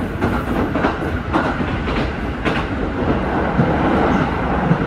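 Electric train running at speed, heard from inside the passenger car: a steady rumble, with the clickety-clack of the wheels over the rail joints about twice a second.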